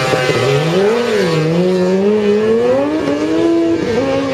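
Drag-racing engine accelerating hard down the strip. Its pitch climbs, then drops back and climbs again several times at the gear changes.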